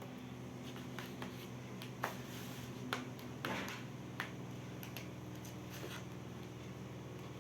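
Light handling sounds as school supplies and packaging are unboxed: a few sharp clicks and brief scrapes at irregular moments, mostly in the first half, over a steady low hum.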